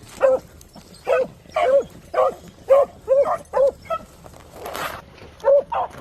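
Beagle pack baying while running a rabbit: short, repeated barks about two a second. The barking breaks off with a brief hiss about four and a half seconds in, then resumes near the end.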